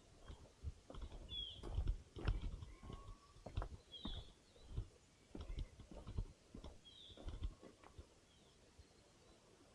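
Footsteps on a forest trail, irregular thuds that stop about eight seconds in. A bird gives short high chirps every few seconds, with one brief whistled note about three seconds in.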